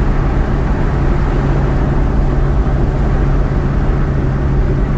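Steady road and engine noise inside a moving car, with a constant low hum.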